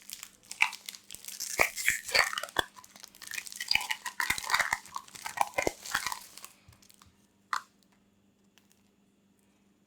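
Crunchy food being bitten and chewed close to the microphone: a dense run of crackling crunches that stops about six and a half seconds in, followed by a single sharp click about a second later.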